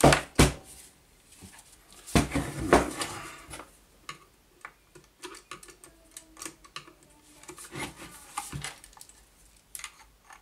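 Metal clinks and taps of hand tools against the miter saw motor's housing while working a brush holder loose: two sharp knocks at the start, a cluster of knocks about two seconds in, then lighter scattered ticks.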